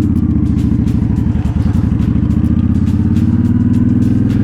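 2007 Honda Shadow Spirit 750's V-twin running through an aftermarket Cobra Streetrod Slashdown exhaust while cruising at a steady speed. The exhaust note is loud and even, with no change in revs.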